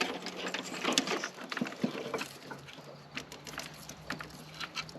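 Handling noise from working on the old washer hose: scattered small clicks and rustles as the rubber hose is gripped and cut off, over a faint steady hum.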